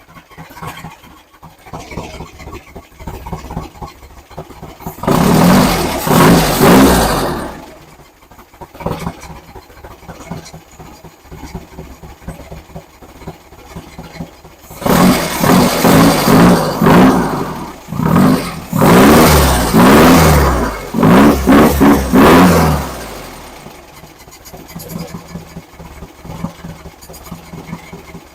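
Engine with a new camshaft running during its break-in, revved up twice, briefly about five seconds in and again for several seconds from about fifteen seconds, dropping back to a low idle in between and near the end.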